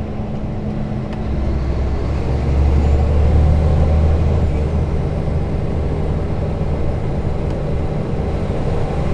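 Scania R420 truck's straight-six diesel engine running on the road. Its low drone grows louder about a second in, then holds steady.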